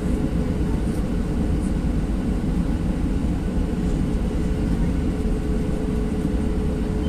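Airliner cabin noise: a steady rush of engines and airflow with a constant low hum underneath, unchanging throughout.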